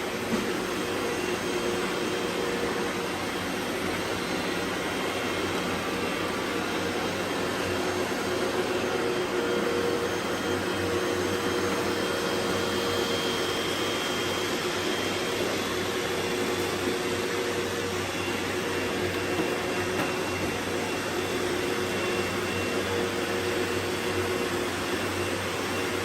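Robot vacuums running together, a steady whirring hum of their motors and brushes with a few held tones mixed in.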